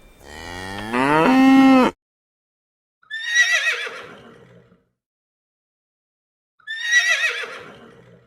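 A cow mooing once, rising in pitch and then holding a steady note, followed by two horse whinnies, each high and quavering and fading out, about three and a half seconds apart.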